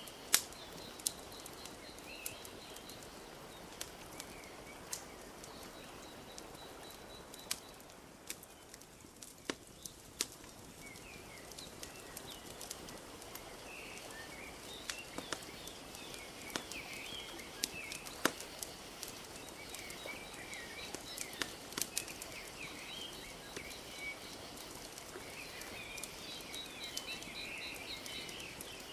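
Wood fire crackling with scattered sharp pops over a soft steady wash of lapping lake water. Birds chirp, and a rapid high trill is heard at the start and near the end, with the birds busiest in the second half.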